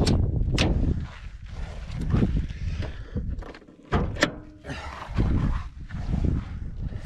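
Wind buffeting the microphone as a low rumble, broken by a few sharp knocks and clicks from handling.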